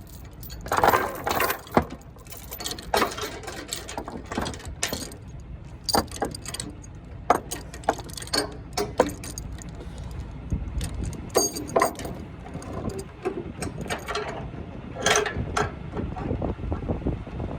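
Irregular metallic clanks and ratcheting clicks of load-securement chain and chain binders being worked, over a low steady rumble.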